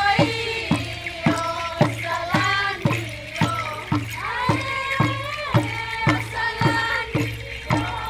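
Voices singing over a steady drumbeat of about two strikes a second.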